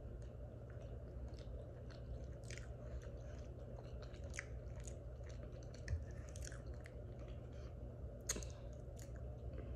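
Close-up mouth sounds of a person chewing soft food: wet smacks and small clicks at an uneven pace, with a steady low hum underneath.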